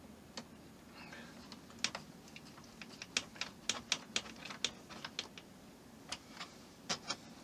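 Light, irregular clicking and tapping of small model parts and tiny screws being handled and fitted on a work surface, a couple of dozen sharp clicks with a busy run in the middle.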